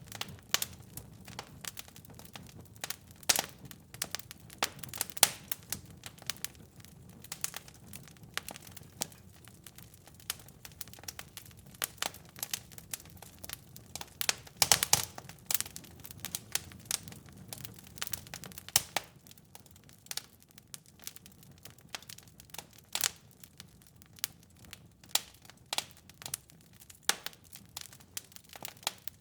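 Wood fire in a fireplace crackling, with irregular sharp pops over a soft low rumble that eases off about two-thirds of the way through.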